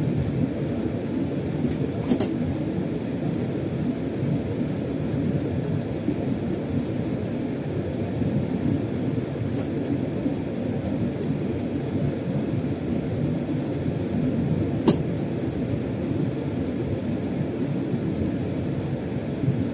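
Steady running rumble of a German freight train heard from inside the locomotive cab, with a few sharp clicks: two close together about two seconds in, one near the middle, and a louder one about fifteen seconds in.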